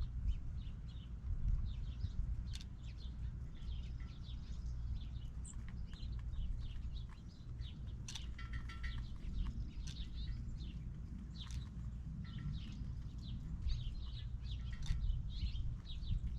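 Many small birds chirping, a steady scatter of short calls over a low rumble.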